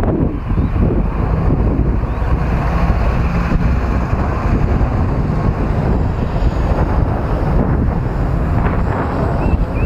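Wind buffeting the microphone: a loud, steady, gusting rumble.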